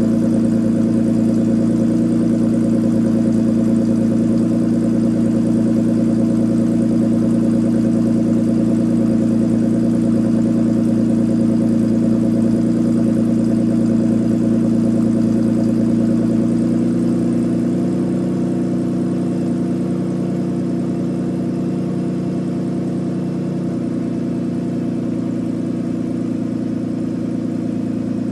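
BMW E39 528i's 2.8-litre straight-six exhaust idling steadily after a cold start. A bit past halfway the idle steps down and gets slightly quieter, then settles a little lower again a few seconds later, as the cold-start fast idle drops.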